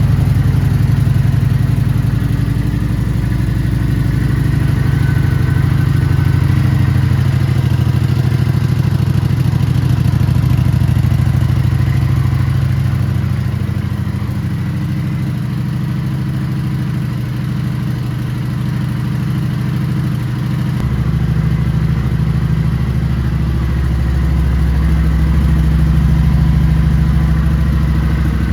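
Kawasaki Vulcan 900 Classic's liquid-cooled 903 cc V-twin idling steadily after a start. The low exhaust note gets stronger about two-thirds of the way through.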